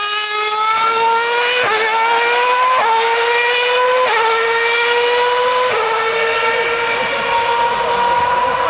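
2013 Formula 1 car's 2.4-litre V8 engine at high revs, accelerating hard through the gears. It makes four quick upshifts, each heard as a sudden drop in pitch followed by a rising note, and after the last one the note climbs slowly.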